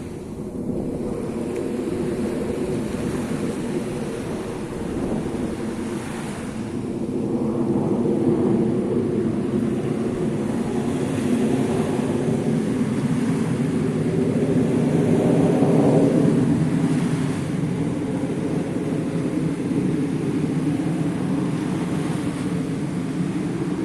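Steady drone of an airplane's engines, a hum of several pitched tones that swells louder about a third of the way in and again past the middle, over the wash of surf.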